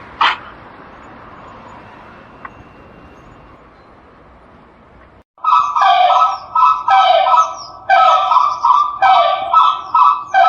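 Animal calls: one short sharp call near the start, then, after a sudden break about halfway through, a rapid run of loud pitched calls, roughly two a second.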